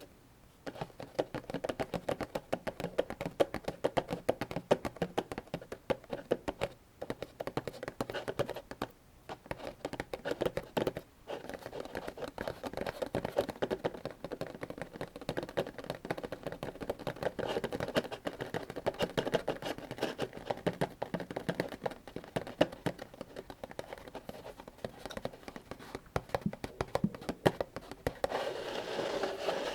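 Rifle cartridges pushed one by one into a 75-round AK-47 drum magazine: a quick, uneven run of clicks and taps with short pauses now and then.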